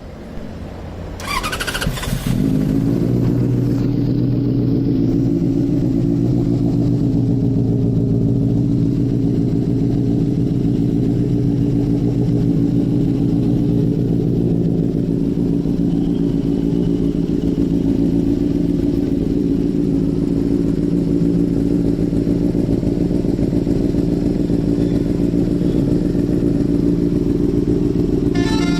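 Benelli TNT 600i inline-four motorcycle engine with an Akrapovic aftermarket exhaust: the starter cranks for about a second, the engine catches about two seconds in, and it then idles steadily and loudly.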